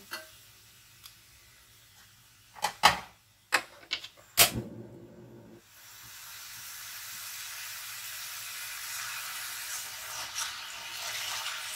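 A few sharp knocks, then sliced potatoes and onions frying in oil in a karahi: a hissing sizzle that starts about six seconds in and grows steadily louder as the pan heats.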